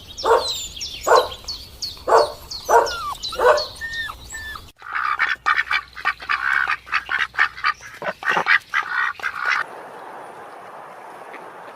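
Birds calling: a repeated short call about every three-quarters of a second, then a faster, denser run of calls, giving way about ten seconds in to a steady hiss of noise.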